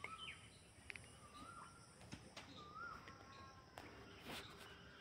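Near silence with faint bird calls: a few short whistled notes and chirps, and a couple of faint clicks.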